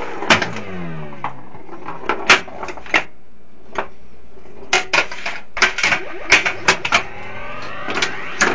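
1981 Gottlieb Volcano System 80 pinball machine in play: a busy run of sharp clicks and knocks from the flippers, bumpers and ball strikes. Electronic sound effects play over them, including falling tone sweeps about half a second in.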